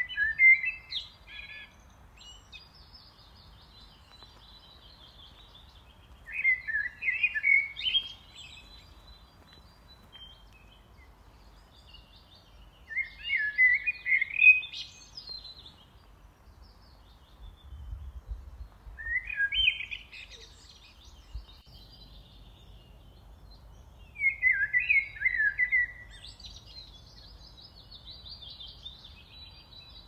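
A songbird singing the same short phrase of about two seconds roughly every six seconds, five times, with fainter, higher chirps from other birds between phrases. A faint low rumble runs underneath.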